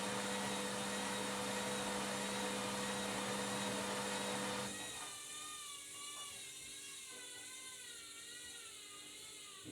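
Washing machine running with a steady mechanical hum and whir, which cuts off suddenly about halfway through, leaving a quieter, wavering high whine.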